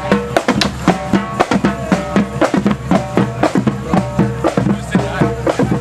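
Marching band playing a march, with bass drum and snare drum beating a steady time under held melody notes.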